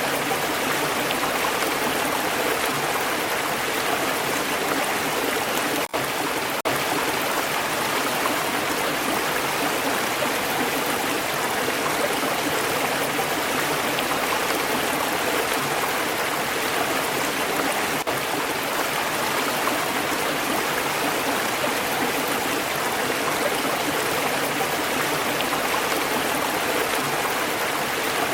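Stream water flowing and gurgling steadily, with a brief dropout about six seconds in.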